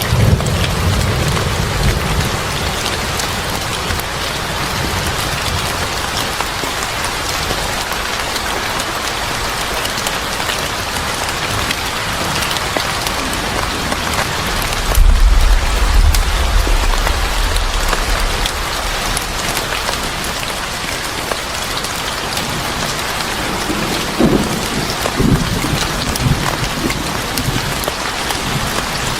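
Steady heavy rain pattering on a surface, with low rolls of thunder near the start and again about halfway through.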